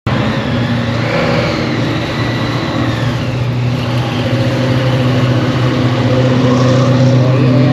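Car engine running at low revs, loud and steady, getting gradually louder.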